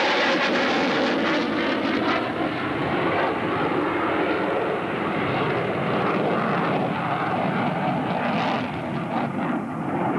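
F-16 Fighting Falcon jet passing low with its turbofan at power: a loud, steady jet rush with a sweeping tone that falls in pitch in the first second or two as it goes by, easing slightly toward the end.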